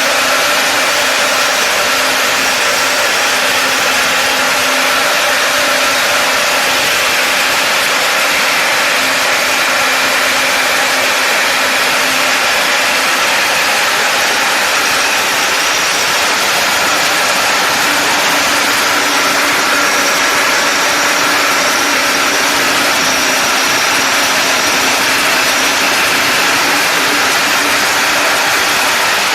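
A machine running steadily, with a constant mechanical hum and whine that neither rises nor falls.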